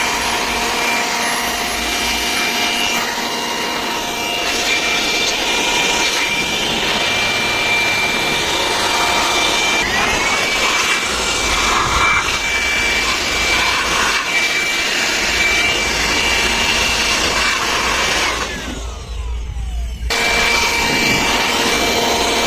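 Electric high-pressure jet washer pump running with a steady whine over the hiss of its water spray, washing out an air conditioner. About 18 seconds in the pump cuts out, its whine falling away, then starts again under two seconds later.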